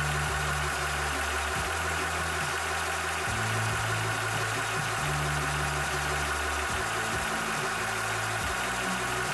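Cobra 300 bar (4500 psi) portable high-pressure PCP air compressor running steadily while pumping, a continuous hum with a steady higher tone over it.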